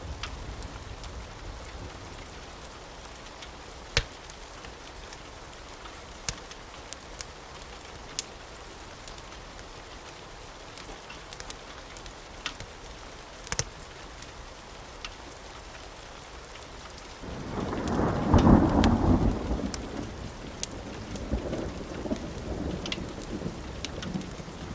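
Steady rain with scattered sharp crackles. About two-thirds of the way through, a loud thunderclap breaks in and fades into a long low rumble.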